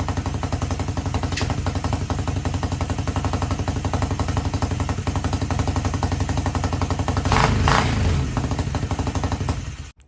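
Swapped-in go-kart engine running with a rapid, even firing beat, with a louder clattering burst about seven and a half seconds in, when the engine is under load and the wrong-size drive chain skips teeth on the sprocket. The sound cuts off suddenly near the end.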